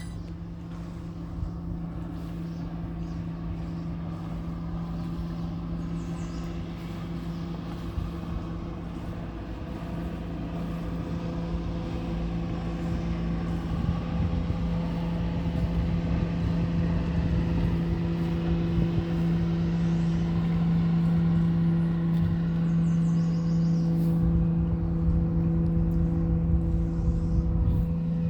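An engine drones steadily with a low rumble, one held hum and its overtones, growing gradually louder over the stretch.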